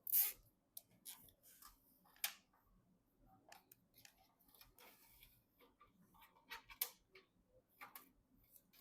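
Irregular light clicks, taps and brief scrapes of PC parts and packaging being handled during assembly, with a sharper click right at the start and others about two and seven seconds in.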